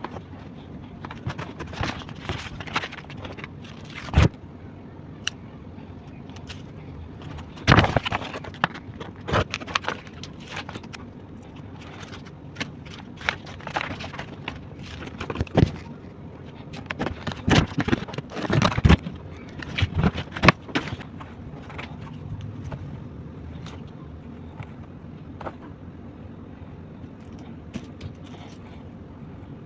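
Hard plastic toy pieces being handled: irregular clicks and knocks, loudest in a cluster about eight seconds in and again in a run later on, over a low steady hum.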